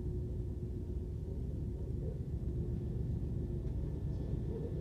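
Moscow Central Circle electric train running, heard from inside the passenger car: a steady low rumble of wheels and running gear, with a faint steady tone that fades out about three-quarters of the way through.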